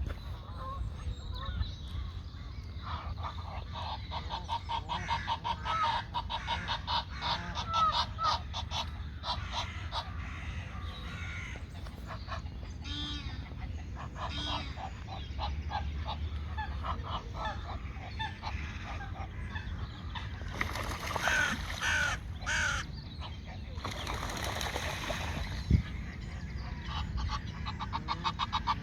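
Birds calling in long runs of rapid, evenly repeated calls, with a few higher chirps near the middle, over a steady low rumble. A single sharp knock comes near the end.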